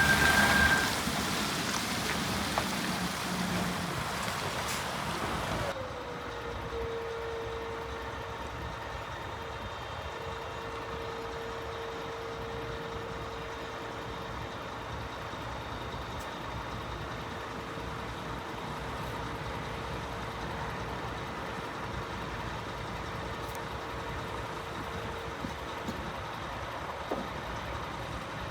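Scania P320 truck running, louder and brighter for the first few seconds, then dropping suddenly to a quieter steady rumble. A steady whine slides down briefly and then holds, stopping a couple of seconds before the end.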